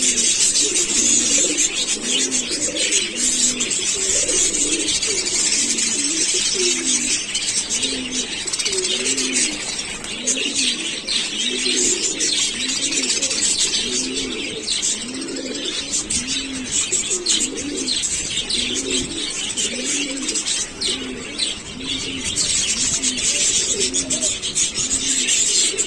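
Doves or pigeons cooing over and over, one low phrase about every second, over a busy chorus of small birds chirping and twittering.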